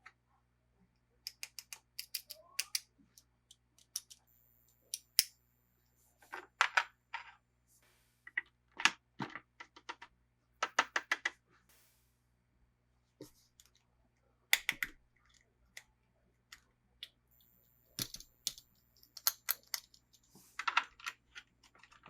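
Small plastic toy pieces and packaging being handled: irregular clusters of sharp clicks and taps, with a few short busier patches.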